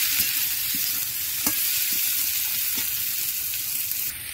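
Drumstick leaves with potato and brinjal sizzling in hot oil in a kadai, stirred with a steel spatula that scrapes and clicks against the pan a few times.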